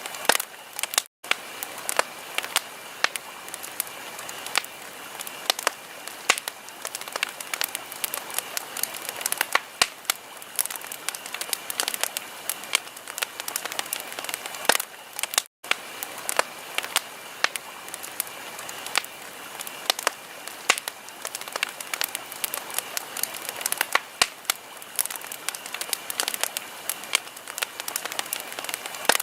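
Wood fire crackling: dense, irregular sharp pops and snaps over a steady hiss. It drops out to silence for an instant twice, about a second in and halfway through.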